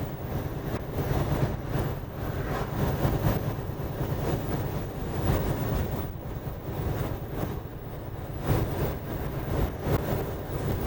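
Steady rumble of a semi-truck on the road, heard from inside the cab: engine and road noise rising and falling in loudness.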